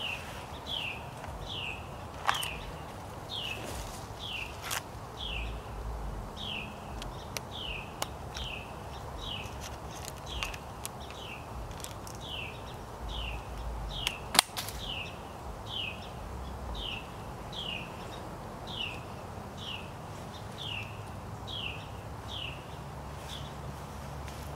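A bird repeating one short, falling chirp about twice a second, steady and unbroken, over faint outdoor hiss. A few sharp clicks, the loudest about two-thirds of the way through.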